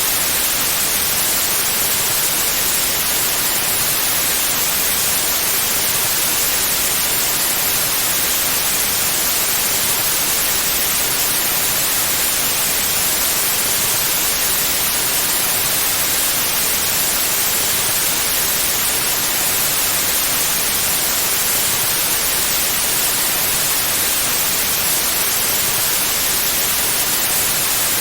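Steady, unchanging white noise: an even hiss weighted toward the high end, with no breaks or variation.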